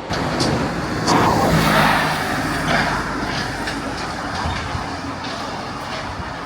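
Demolition excavator working a rubble pile: its diesel engine runs steadily under a series of sharp clanks and knocks of metal and broken concrete. The clanking is loudest in the first few seconds.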